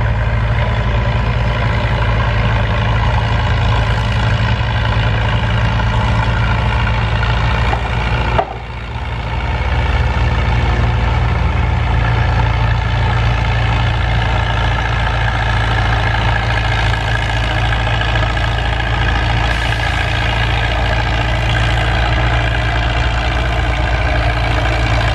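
Farm tractor engine running loud and steady at a constant pitch, with a brief drop in level about eight seconds in.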